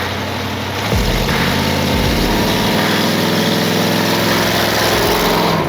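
A vehicle engine running, its pitch climbing gradually over the last few seconds as it speeds up, with a thump about a second in.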